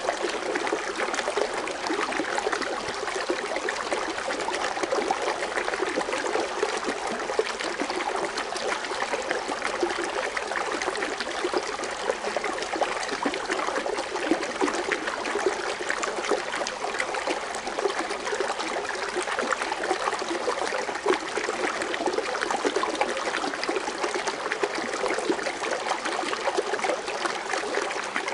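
Water fountain splashing and trickling in a steady, continuous rush of foaming water.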